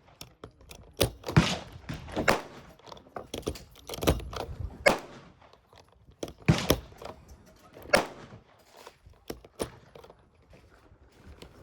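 A string of irregular sharp bangs and knocks, about a dozen, some much louder than others, with short quieter gaps between them.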